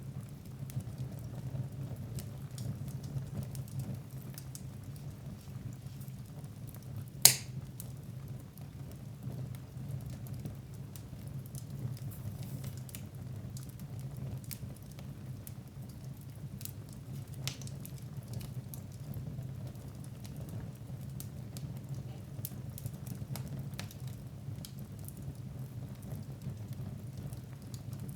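Wood fire burning in a fireplace: a steady low rumble of flames with scattered small crackles, and one loud sharp pop about seven seconds in.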